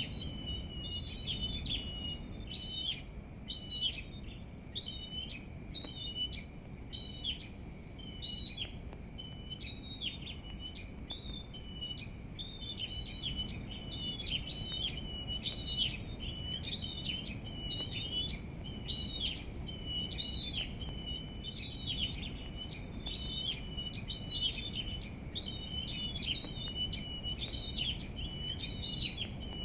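Small songbird singing continuously in quick, repeated chirping phrases, over a low, steady rumble of outdoor background noise.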